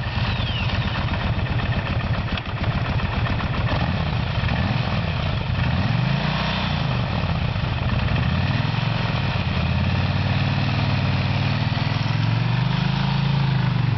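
Kawasaki Vulcan 1500's V-twin engine idling, revved up and back down about six seconds in, and rising in pitch again near the end.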